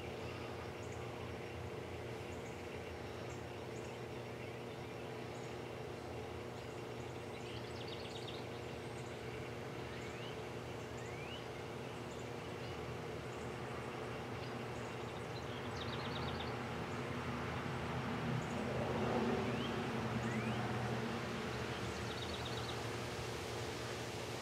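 Quiet outdoor evening ambience: a steady low hum with short high bird chirps and trills every few seconds. About two-thirds of the way in, a faint wash of noise swells and fades.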